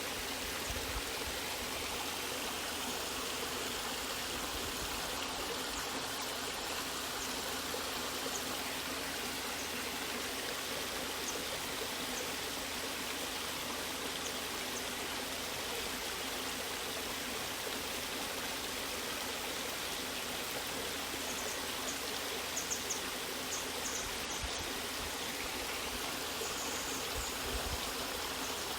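Natural waterfall with water running steadily in an even, unbroken rush, with a few faint high ticks near the end.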